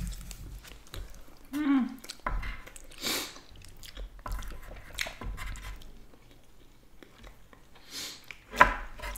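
Chewing and biting of nigiri sushi, with scattered small clicks and a brief hummed 'mm' about a second and a half in. There is a sharp click, the loudest sound, near the end.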